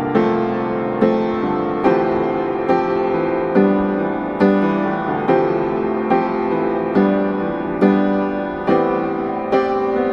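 Slow, gentle piano music, a note or chord struck about once a second and left to ring.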